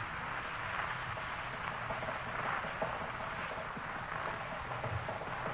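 Radio sound effect of an old car's motor chugging along steadily, heard under the hiss of an old recording.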